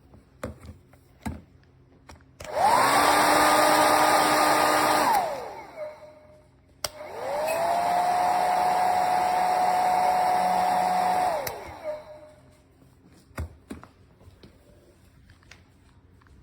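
Revlon compact 1875W hair dryer blowing in two runs of a few seconds each. Its fan motor whine rises as it spins up and falls as it winds down after being switched off, higher-pitched the first time and lower the second, its high and low settings. Short clicks of the switch and handling come before, between and after the runs.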